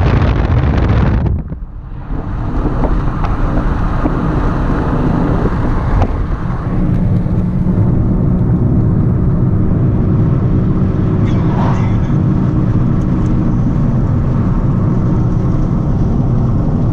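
Steady engine hum and tyre noise inside a moving car, heard from the cabin, with a brief dip in loudness about a second and a half in.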